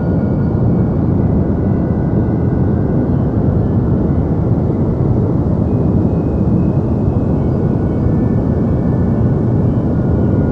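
Steady, deep white noise: an even, unbroken hiss weighted toward the low end, with a few faint high tones that drift in and out.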